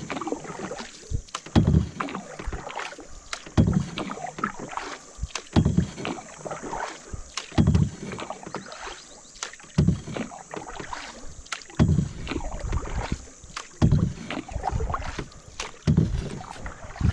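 Canoe paddle stroking through the water, one pull about every two seconds, with splashing and dripping between strokes.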